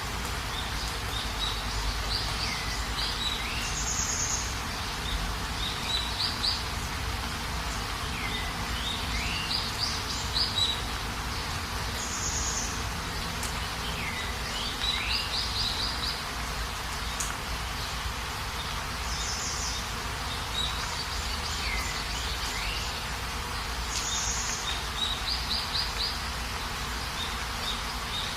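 Steady rain hiss, with a bird calling again and again every few seconds in short phrases of quick high notes.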